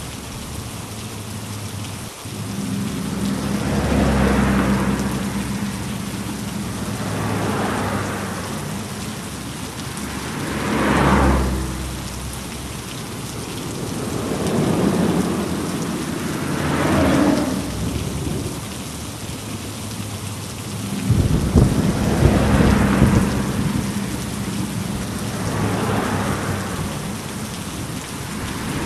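A rainstorm: steady heavy rain with a low rumble of thunder, the noise swelling and easing every three to four seconds.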